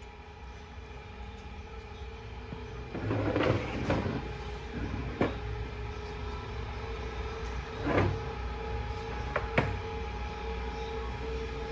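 Steady hum of shop machinery with a held tone, broken by several sharp metal clanks and knocks from heavy transmission parts being handled, the loudest about three and a half, four, eight and nine and a half seconds in.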